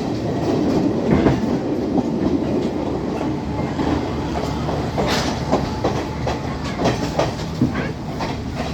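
Class S12 diesel multiple unit train running along the track: a steady rumble with wheels clicking and knocking irregularly over rail joints, the sharpest click about five seconds in.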